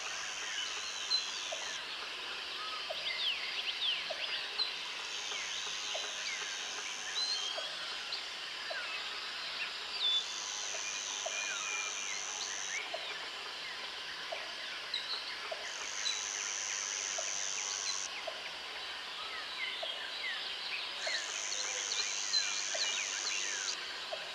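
Tropical forest ambience: many birds chirping and whistling over a bed of insects, with a high insect buzz of about two seconds that comes back five times, and a soft tick about once a second.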